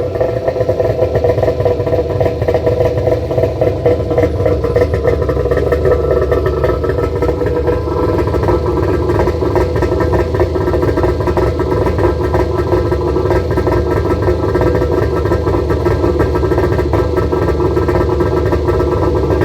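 Yamaha Wave Raider jet ski's two-stroke engine running steadily just after being started on a new battery.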